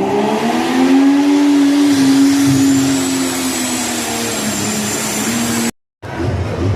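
Diesel pro stock 4x4 pickup engine pulling hard under load. It climbs in pitch for about a second, then holds and slowly sags as the sled bears down. A high turbocharger whistle rises about two seconds in and holds; near the end the sound cuts out abruptly and a rougher low rumble follows.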